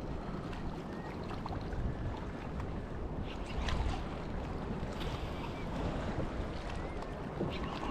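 Wind buffeting the microphone with water lapping against a kayak hull on open sea: a steady low rumble with a few faint splashes.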